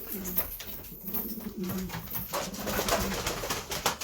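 Domestic pigeons cooing in a loft, low repeated coos, with sharp clicks and rustling among them.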